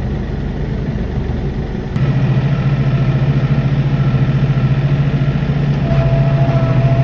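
Tractor engine running steadily; about two seconds in it gets louder, with a strong steady low hum, and near the end a faint thin whine joins it.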